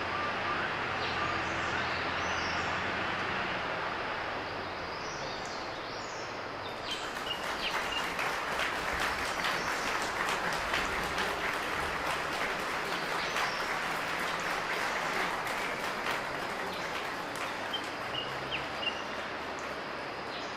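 Steady outdoor noise that turns into dense crackling about a third of the way in, with a few short, high bird chirps scattered through it.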